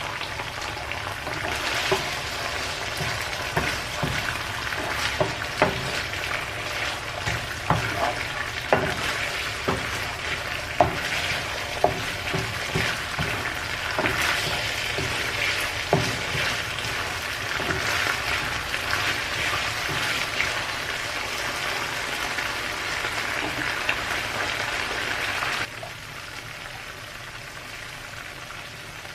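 Food sizzling as it fries in a pan, stirred, with a utensil clicking and tapping against the pan now and then. The sizzle drops abruptly near the end.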